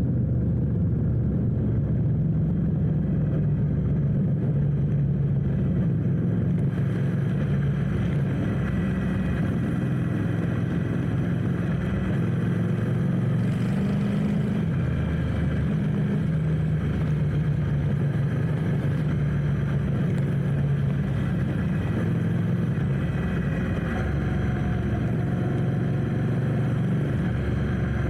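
Motorcycle engine running steadily at low road speed, its pitch rising and falling a little.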